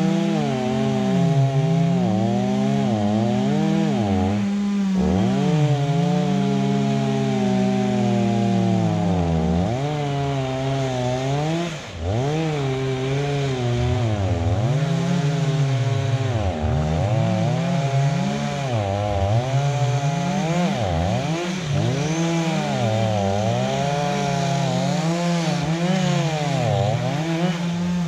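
Two-stroke chainsaw cutting wood, its engine note repeatedly sagging as the chain bites under load and climbing back again every second or two, with a short lull about twelve seconds in.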